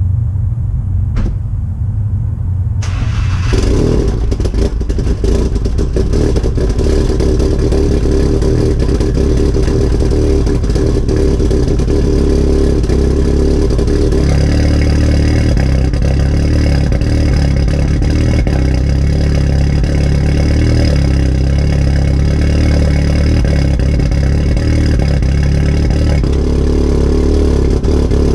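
Cold start of a MK7.5 Golf R's built 2.0-litre turbocharged four-cylinder on E85, through a catless downpipe and a Remus valved exhaust. A click comes about a second in, the starter cranks near three seconds, and the engine catches and settles into a loud, steady idle. Its note changes about fourteen seconds in and again near the end. The exhaust has a leak before and after the resonator.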